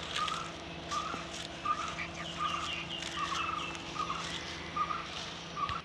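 Birds calling: a short call repeated about every half second, with a brief run of higher chirps in the middle, over a steady low hum that cuts off suddenly near the end.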